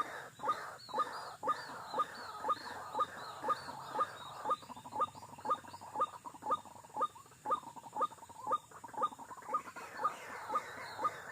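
White-breasted waterhen calling one short, sharp note over and over, very evenly, about twice a second, with faint higher chirps above it.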